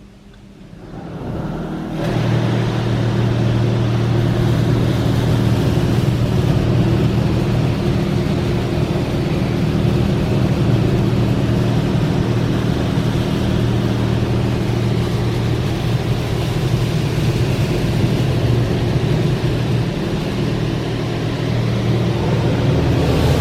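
Laserwash touchless car wash machinery starting up about a second in and running steadily: a loud pump hum over the hiss of water spray.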